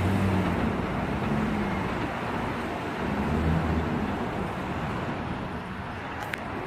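Inside a Bombardier R179 subway car in motion: a steady rumble of wheels on rail with a low hum that comes and goes, and one brief sharp squeak near the end.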